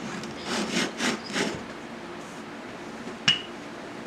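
Dough being rolled and worked on a floured table: four quick rubbing strokes about a second in, then a single sharp knock near the end.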